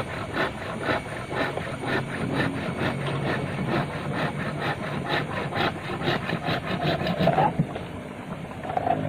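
Hand saw cutting through a yellow bamboo stalk in quick back-and-forth rasping strokes, roughly three to four a second, stopping about seven and a half seconds in.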